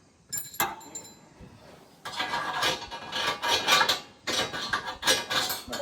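Steel parts and tools clinking and clattering while combine concaves are being changed: a sharp ringing clink about half a second in, then from about two seconds a run of rapid metallic rattling.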